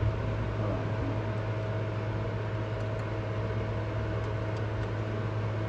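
A steady low mechanical hum with a few faint steady tones above it, unchanging throughout.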